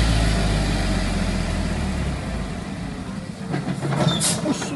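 Mitsubishi Fuso truck's diesel engine labouring on an uphill climb with an overloaded body; its low drone dies away about two seconds in. A few short, sharp hisses follow near the end.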